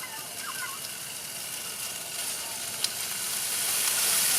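Slices of beef tongue sizzling as they fry, growing louder about three seconds in, with a faint click near the end.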